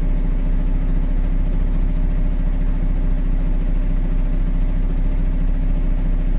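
Dump truck's diesel engine idling steadily, an even low rumble with a fine regular pulse.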